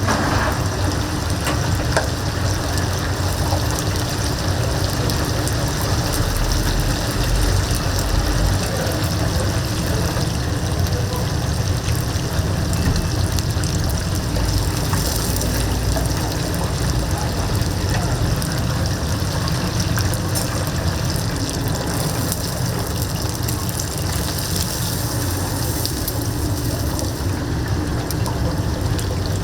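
Whole chickens deep-frying in a vat of hot oil: a steady, loud sizzle with fine crackling.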